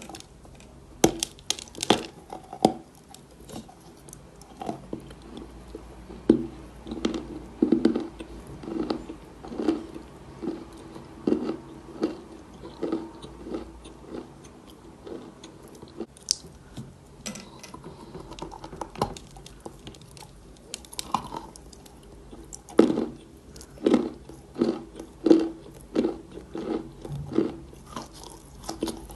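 Chalk being bitten and chewed close to the microphone: repeated sharp bites and crunches, with softer crumbly chewing in between.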